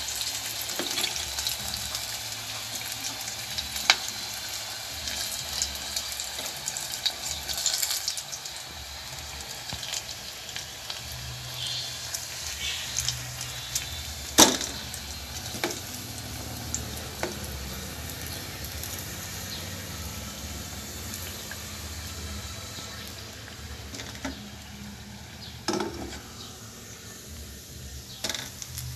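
Chicken pieces frying in hot oil in a stainless steel pot: a steady sizzle with fine crackling. A few sharp clicks cut through, the loudest about halfway, as pieces are lifted out with tongs; the sizzle is a little quieter near the end.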